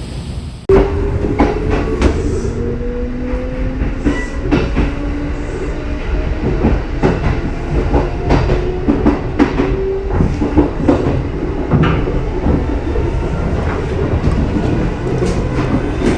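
Kintetsu 80000 series 'Hinotori' electric train running past, its wheels clacking over rail joints with a steady rumble. A motor whine rises slowly in pitch through the first half, as when the train gathers speed.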